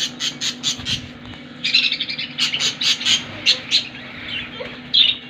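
Budgerigars in a breeding colony chirping: a quick series of short chirps, then a denser run of chatter, with two louder calls near the end.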